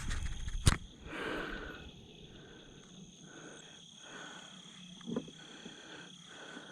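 Crickets chirring steadily in two even, high tones, with a sharp click under a second in and soft rustling of handling noise.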